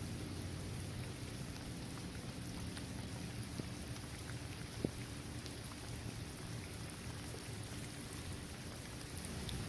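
Steady rain falling on a hard basketball court, trees and grass, with scattered single drops ticking through it and one sharper drop tick about five seconds in.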